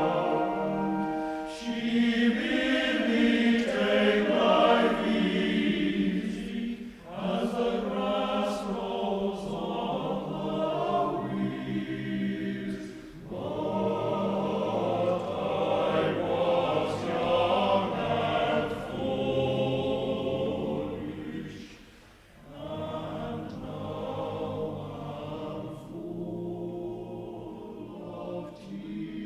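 Choir singing a slow folk song in long phrases, with short breaks between them.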